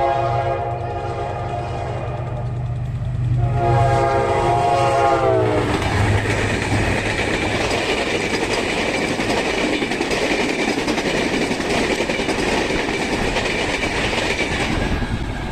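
General Electric diesel locomotive sounding its horn twice over its engine drone, the second, longer blast bending down in pitch as it ends. Then the loud, steady rumble and clatter of the train rolling past, with a high ring over it.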